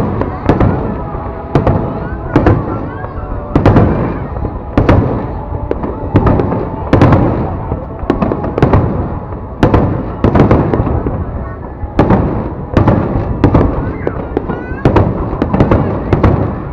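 Aerial fireworks bursting in quick succession, a sharp bang roughly every half second to second, each trailing off, over the continuous noise of a large crowd.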